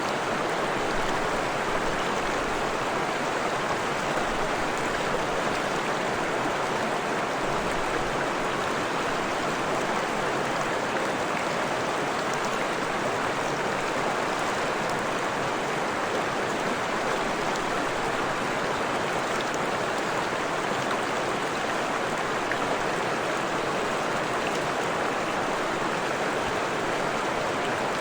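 Freshwater stream flowing: a steady, even rush of running water with no let-up or change.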